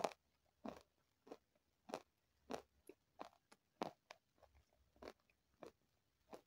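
Close-miked chewing of crunchy food, a short crunch about every two-thirds of a second, evenly paced.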